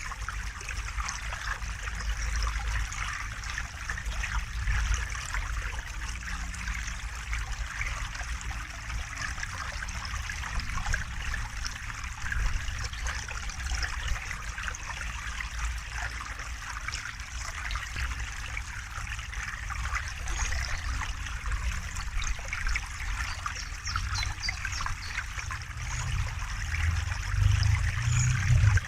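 River water running steadily with a continuous trickling, splashing rush. A deeper low rumble swells near the end.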